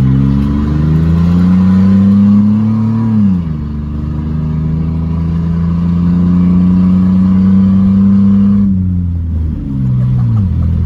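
Chevy S10 engine with its muffler removed, open exhaust, taken to full throttle and held at high revs for about three seconds. It drops back, then climbs and holds high again for about five seconds. It falls once more and gives one short blip near the end.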